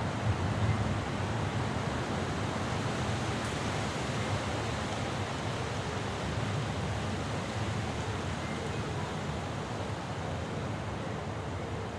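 Thunderstorm ambience: a steady rush of wind over a low rumble, which is a little louder in the first second.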